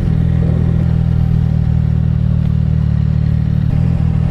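Car engine idling steadily: a low, even tone with no revving.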